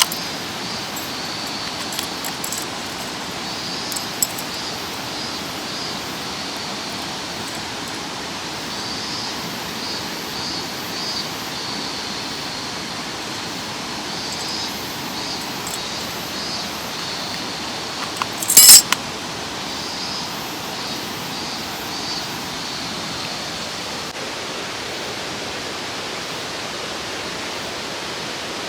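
Mountain stream flowing steadily, with faint high chirps over it. A few light clinks of camp gear, with a louder burst of clinking about two-thirds of the way through.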